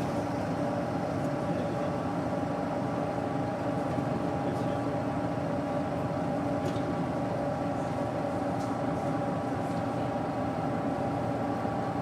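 Doosan GE12Ti turbocharged natural-gas engine of a Daewoo BS110CN bus running at a steady speed, a constant drone with an even whine, with a few faint ticks.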